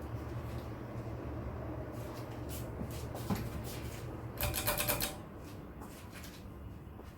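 1988 Gulf Coast Sea Breeze III 36-inch ceiling fan running on high with a steady motor hum. About four and a half seconds in comes a brief run of rattling clicks, after which the hum drops and the sound is quieter.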